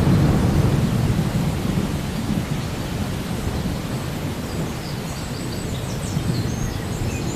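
Steady rain with a low rolling rumble of thunder, the rumble loudest at the start and easing off a little.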